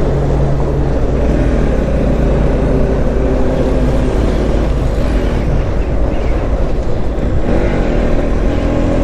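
Motorcycle engine running on the move under a steady rush of noise. Its pitch sinks over the first few seconds, then climbs again from about seven and a half seconds in as the revs rise.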